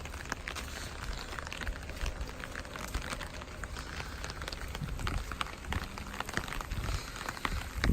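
Rain falling steadily, with many close drops ticking sharply on a nearby surface and a low rumble underneath; one louder sharp hit comes at the very end.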